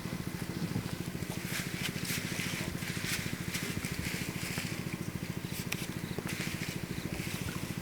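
A small engine running steadily with a fast, even putter. Brief hissy swishes sound over it a couple of times.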